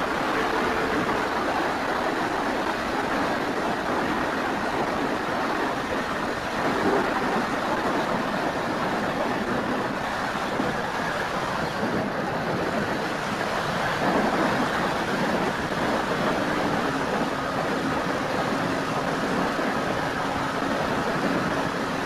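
Wind rushing steadily over the microphone of a keychain camera riding on an FMS Cessna 182 RC model plane in flight, with a faint motor and propeller tone underneath that drifts slightly lower near the end.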